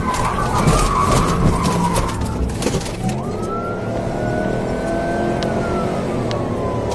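Police car siren wailing in slow rising and falling sweeps over the engine and road noise of a car at speed. The road noise is heavier in the first three seconds.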